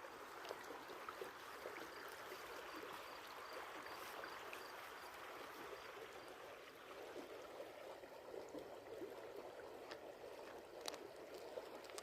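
Faint running water, a steady babbling, with a sharp click near the end.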